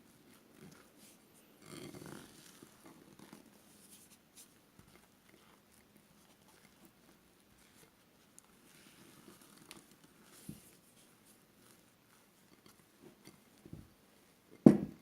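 A spatula folding and scraping macaron batter (meringue with almond flour and powdered sugar) around a mixing bowl during macaronage: soft, irregular scrapes and squelches. One sharp knock near the end.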